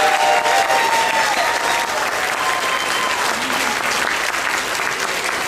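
Audience applauding, a steady patter of many hands clapping, with a few voices in the crowd during the first second or so.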